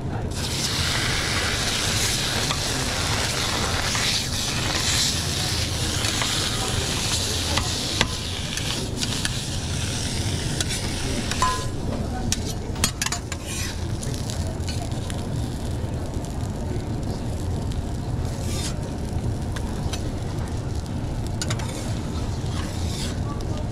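Food frying with a loud sizzle for about the first eleven seconds. The sizzle then drops away, leaving scattered sharp clicks and taps over a steady low hum.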